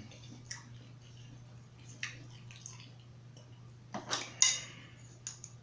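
Eating and food-handling noises at a seafood boil: a few short clicks and crackles, the loudest a brief cluster about four seconds in, over a steady low hum.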